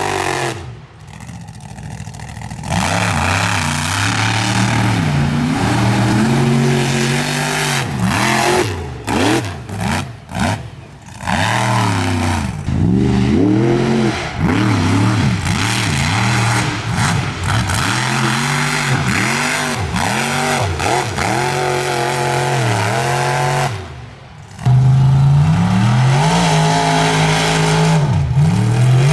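Mud truck engine revving hard, its pitch rising and falling again and again, with a few short drops in level.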